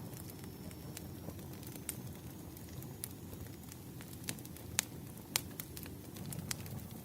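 Wood fire in a fireplace crackling: irregular sharp snaps and pops over a low steady rumble, with two louder pops a little past the middle.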